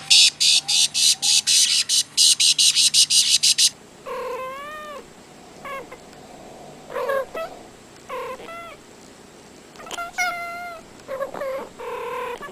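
A domestic cat meowing repeatedly in short, wavering calls from about four seconds in. Before that comes a rapid run of short hissy pulses, about four or five a second, which stop suddenly.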